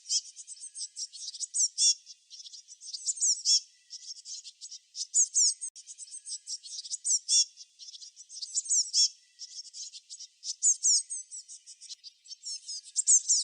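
Songbirds chirping: rapid high-pitched chirps and quick downward-sweeping notes, in dense bursts every one to two seconds.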